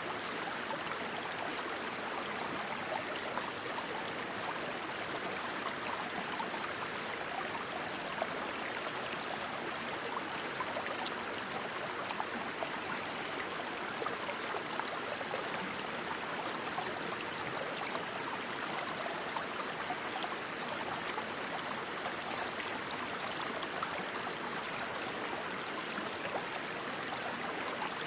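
Rushing water, a steady stream flowing. Short, very high-pitched chirps are scattered over it, with a brief rapid trill near the start and another late on.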